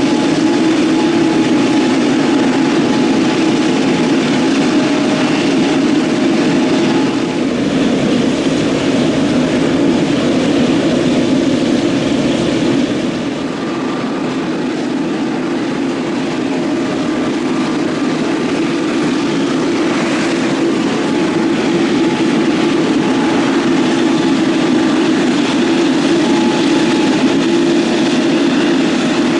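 Steady jet engine noise from airliners on the airfield, with a brief dip in level about 13 seconds in.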